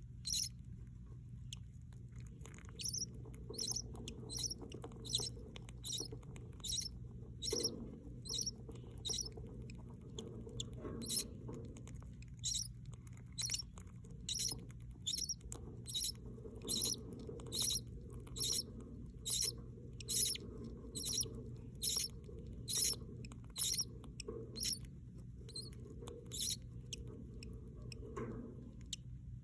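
Budgerigar chicks peeping: short, high-pitched squeaks repeated at a steady rate of about one and a half a second, over a low steady hum.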